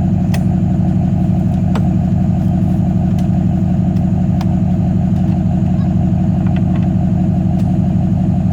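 A vehicle engine idling steadily at a constant speed, with a few light clicks over it.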